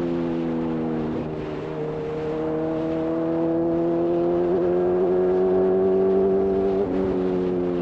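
Honda CB1000R's inline-four engine through a Black Widow full-system exhaust, pulling steadily with its pitch slowly rising and dipping briefly about a second in and near the end, with wind rushing past.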